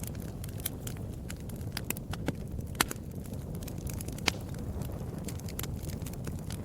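Wood fire crackling: a steady low rumble of burning with frequent sharp pops and snaps, two louder pops about three and four seconds in.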